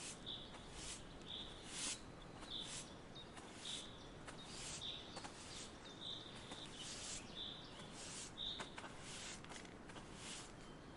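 A bird repeating a short, high chirp about once a second, over a faint outdoor hiss with scattered brief rustles.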